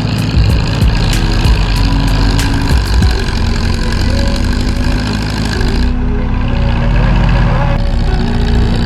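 International 350 Utility tractor's engine running steadily.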